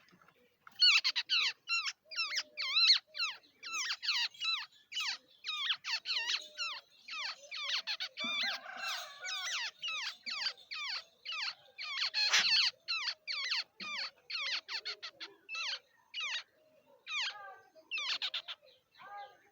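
Babblers calling: a rapid run of short, sharp, high-pitched calls, several a second, with a brief harsher stretch about a third of the way in.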